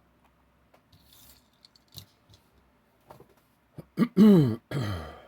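Faint scattered clicks and light rustles of small diecast toy trucks being handled. About four seconds in, two loud voice-like sounds with a falling pitch follow.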